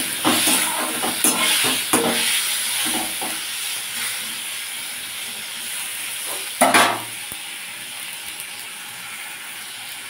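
Sliced green tomatoes sizzling in hot mustard oil in a kadai, stirred with a flat spatula. The spatula scrapes the pan in quick strokes over the first few seconds, with one louder stroke about six and a half seconds in, while the sizzle slowly dies down.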